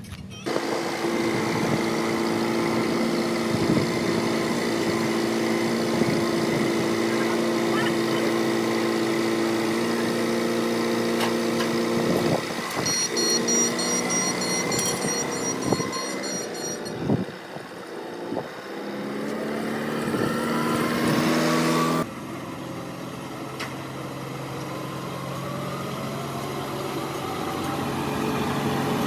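An engine running steadily, with a few knocks about halfway through. The sound changes abruptly later on.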